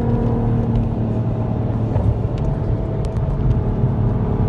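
Turbocharged car's engine and road noise running steadily at a constant speed, a low rumble with a faint steady drone over it.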